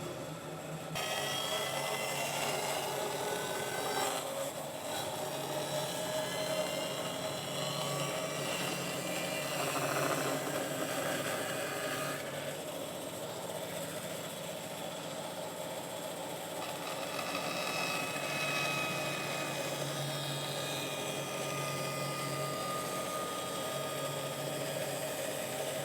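A power tool starts about a second in and runs steadily, taking a little material off a wooden board.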